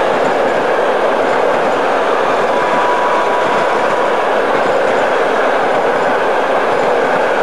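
Passenger train coaches passing close by at speed: a loud, steady rush and rumble of wheels on rails. A faint thin whine comes in for about a second and a half near the middle.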